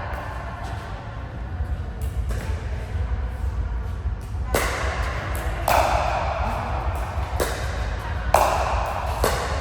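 Ball being hit back and forth in a rally: sharp hits, about one a second from halfway through, each with a short ringing tail, over a steady low hum.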